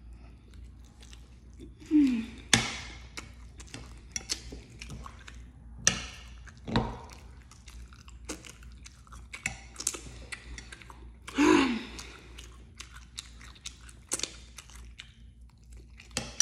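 Close-miked chewing and lip-smacking of a mouthful of soft, grainy food, with many small wet clicks. Twice, about two seconds in and again near eleven seconds, a short louder vocal sound falls in pitch over the chewing.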